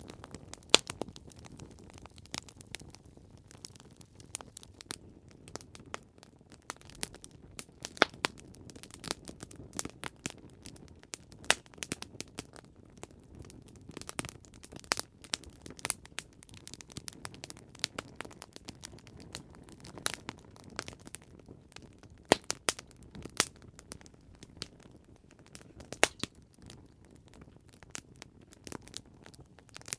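Campfire crackling: irregular sharp pops and snaps over a soft low hiss of burning wood.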